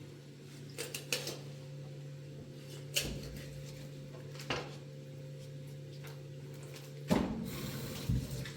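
A few separate clinks and knocks of dishes being handled, over a steady low hum. Near the end comes a longer, louder clatter lasting about a second.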